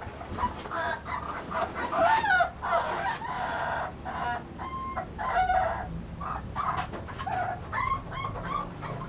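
Young American Bully puppies whining and squealing, a run of short high-pitched cries with a few longer held whines.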